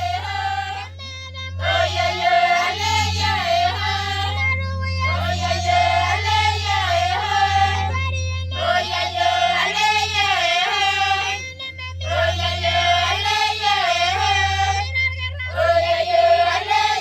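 Background music: a song with high voices singing in phrases a few seconds long, separated by short pauses, over a steady low drone.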